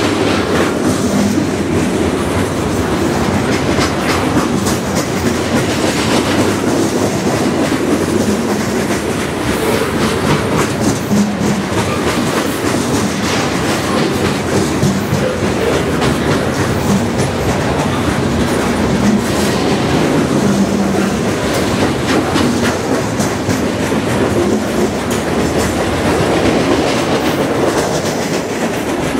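Freight cars, boxcars then gondolas, rolling past close by: loud, steady wheel-on-rail noise with rapid clicking as the wheels pass over rail joints.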